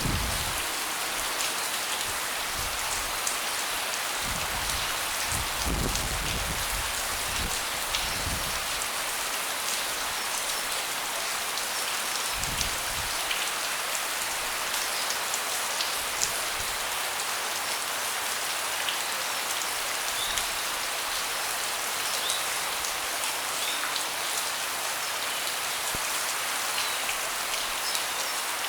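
Steady rain falling on a deck: an even hiss with many small scattered drop taps. A few soft low rumbles come through in the first dozen seconds.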